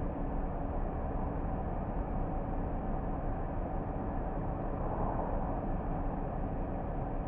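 A car driving at steady speed: a steady low rumble of engine and road noise with a faint hum running through it.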